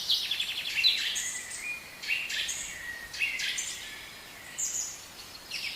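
Budgies chattering and warbling: a steady run of short chirps and trills.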